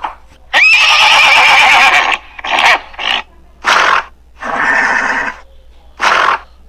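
Horse whinnying: one long, loud whinny that opens with a quick rise in pitch, followed by several shorter calls.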